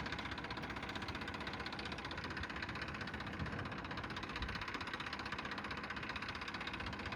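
Tractor engine running steadily with an even, rapid knocking beat.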